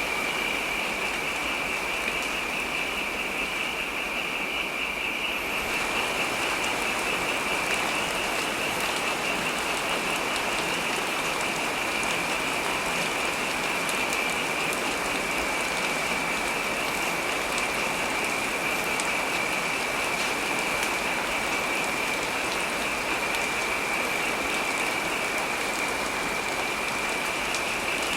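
Heavy rain falling steadily, an even wash of rain noise with a high hiss running through it; the upper hiss grows brighter about five seconds in.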